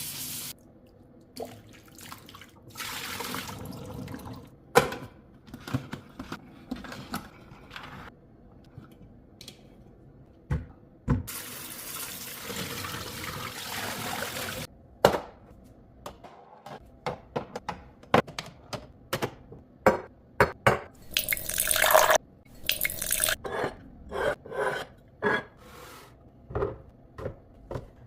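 Kitchen handling sounds: containers and lids clicking and knocking as they are set down, with stretches of running or pouring water, the longest lasting about four seconds near the middle.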